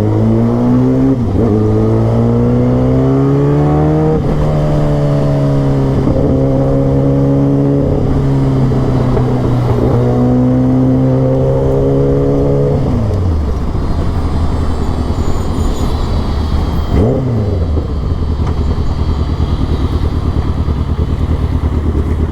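Kawasaki ZX-10R superbike's inline-four exhaust under hard acceleration. The pitch climbs through several gears with a quick drop at each upshift. About 13 seconds in the pitch falls away and the engine settles to a lower, steady cruising note.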